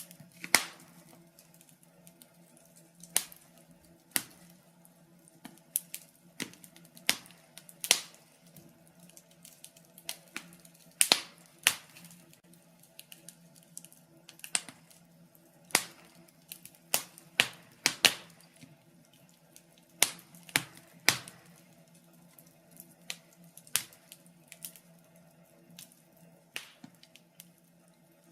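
Wood fire crackling in a fireplace: irregular sharp pops and snaps from burning logs, some loud, over a faint steady low hum.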